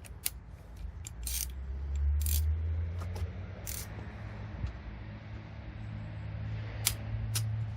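Scattered sharp metallic clicks and clinks of hand tools being handled, about six of them, over a low steady rumble.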